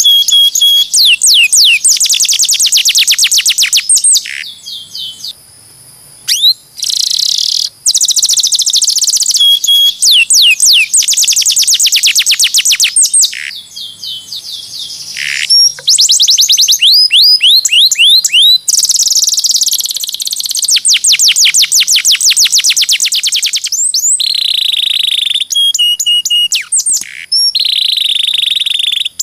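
Domestic canary singing: long, loud trills of rapidly repeated, high downward-sweeping notes, phrase after phrase, broken by a few brief pauses.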